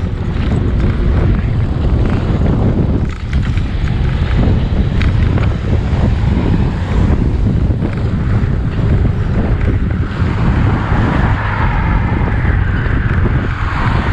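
Wind buffeting the microphone while riding a bicycle: a steady, heavy low rumble. From about ten seconds in, a brighter hiss rises over it.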